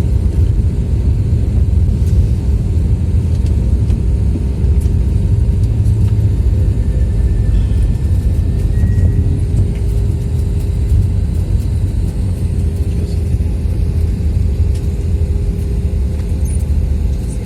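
Cabin noise of an Airbus A320-200 rolling on the ground after landing: a loud, steady low rumble with a constant hum, easing slightly near the end.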